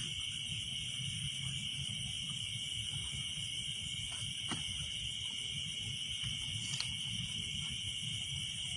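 A steady, high-pitched chorus of night insects trilling without a break, over a low rumble, with a couple of faint clicks about halfway through.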